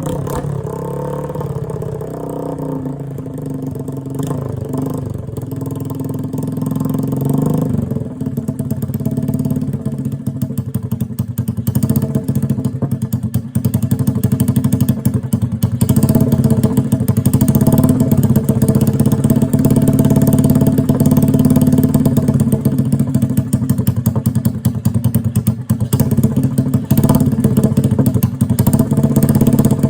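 Honda ATC185S three-wheeler's single-cylinder four-stroke engine running on the first start of a freshly rebuilt top end. The revs settle down in the first second, the running turns into a choppier, rapid pulsing about eight seconds in, and it gets louder around sixteen seconds in.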